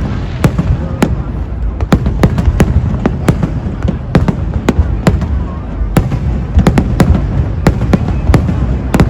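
Aerial fireworks display bursting: an irregular run of sharp bangs, several a second, over a continuous low rumble of shells going off.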